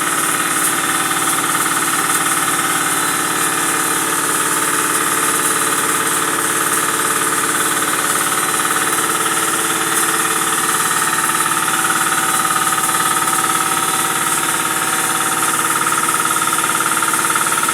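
Crusher/flour-milling machine for fish-feed pellets running steadily: a loud, continuous mechanical din with a constant high whine.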